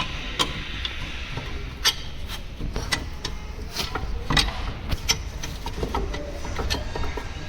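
Irregular knocks and clinks of hand tools and metal parts, with a low steady hum underneath, as a car's front hub assembly is taken apart.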